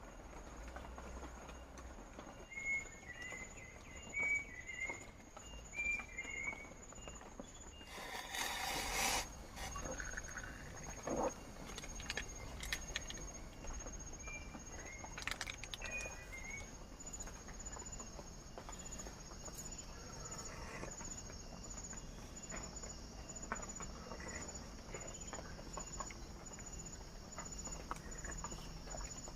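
Forest ambience: a steady high insect trill, a few short bird chirps, and scattered light taps and rustles, with a louder rustling burst about eight seconds in.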